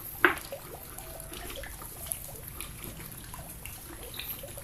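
Faint trickling and dripping of water, with one sharp click about a quarter second in.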